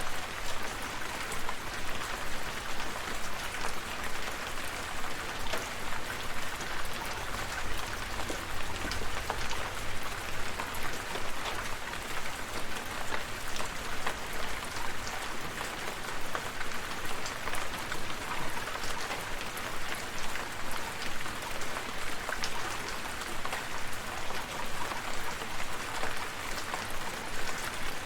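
Steady rain falling, with the close patter of individual drops hitting a surface.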